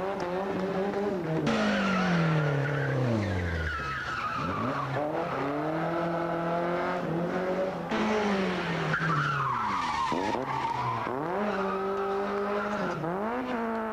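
Rally car engines running hard: the pitch climbs through upshifts and drops sharply on lift-off, several times over, with tyres sliding on the tarmac as the cars are driven sideways.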